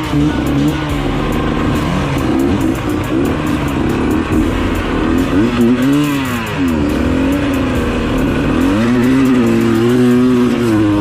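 Dirt bike engine revving, its pitch dropping and climbing again in several swoops as the throttle is worked through the gears.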